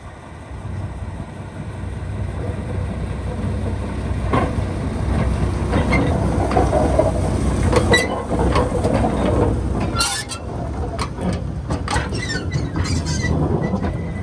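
Train of ex-London Underground 1959 stock cars running on the track: a steady low rumble with many sharp clicks and knocks, growing louder over the first few seconds.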